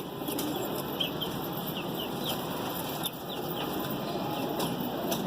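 Pigeon's wings flapping and rustling as the bird is held and handled, with faint short high chirps of other birds.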